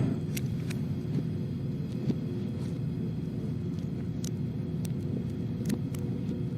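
Film soundtrack played backwards: a steady low rumble with a few faint clicks scattered through it.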